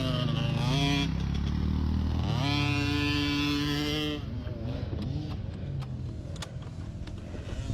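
Kawasaki pit bike's small single-cylinder engine revving hard. Its pitch climbs and wavers in the first second and dips, then holds high revs for about two seconds before dropping to a lower, rougher run with scattered knocks and rattles.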